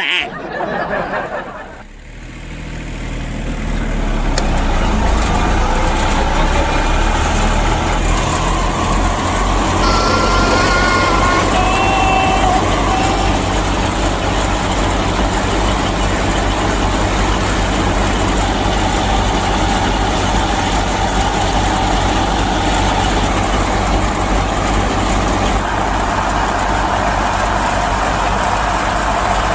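A heavy engine running steadily with a low, even rumble. It builds up over the first few seconds, and a few brief high tones sound about a third of the way in.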